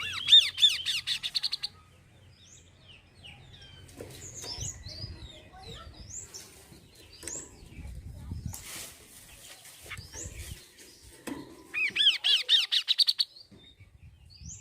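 Kaso-kaso bird singing: a fast run of repeated rising-and-falling whistled notes at the start, scattered short chirps, then a second fast run about eleven seconds in.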